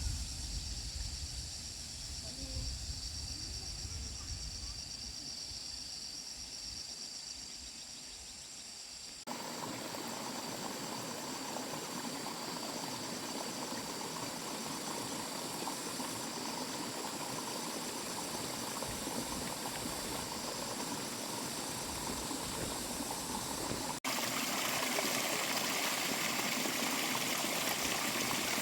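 Running water, a steady rushing hiss, changing abruptly about a third of the way in and again near the end, where it gets louder. Before the first change there is a quieter low rumble with a faint steady high whine.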